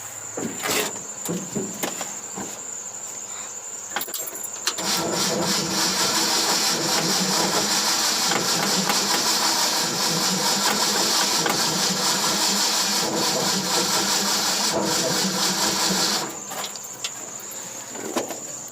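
Car engine cranking on its starter without firing, along with a squealing accessory belt, for about eleven seconds; it begins about five seconds in and stops suddenly. A few light clicks come before it.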